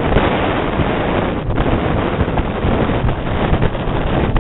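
Strong wind buffeting the microphone in flight, a loud, gusty rushing that is heaviest in the low end. It cuts off abruptly at the end.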